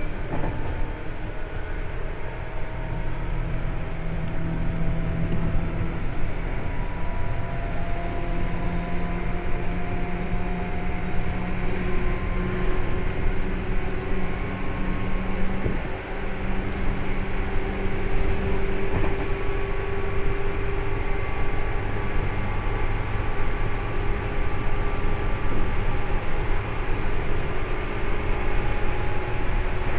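Seibu 2000 series electric train running, heard from inside the car: a steady rumble of wheels on rails, with motor and gear whine that climbs slowly in pitch.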